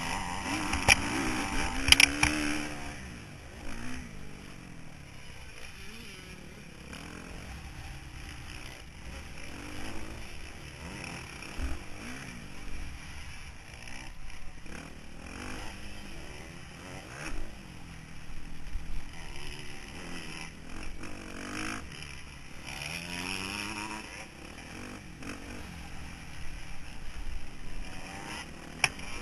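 Motocross motorcycle engine heard from on board, revving up and falling back again and again as the rider accelerates and shuts off around the track, with a few sharp knocks and clatter.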